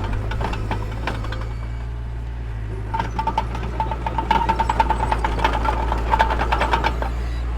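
Mini bulldozer's diesel engine running steadily, with a fast run of metallic clanks and rattles from about three seconds in until near the end.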